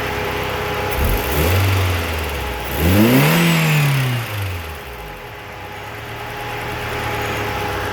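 Opel car engine idling, revved twice: a short blip about a second in, then a longer rev that climbs and falls back to idle around the middle.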